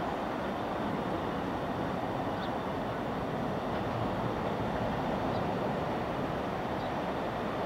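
A distant train running on the line: a steady rumble and rail noise, growing a little louder near the end.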